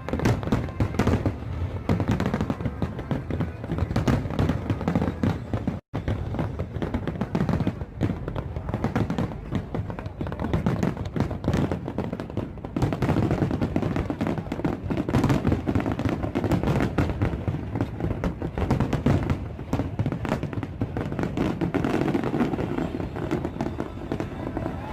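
Fireworks going off in quick, dense succession, a steady barrage of bangs and crackles with a brief cut in the sound about six seconds in.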